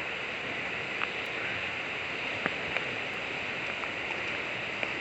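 River water rushing steadily past the bank, with a few brief faint ticks over it.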